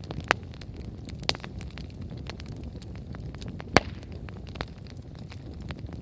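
Wood fire crackling, with a steady low rumble of burning under many small crackles and a few sharp pops; the loudest pop comes a little before the four-second mark.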